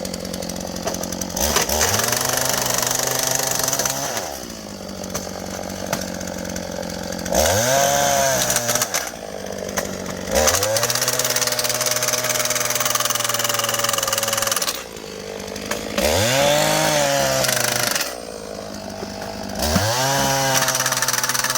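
Small petrol engine of a track power tool revving up in about five separate bursts. Each burst climbs quickly in pitch, holds steady for a few seconds under load, then dies back to idle.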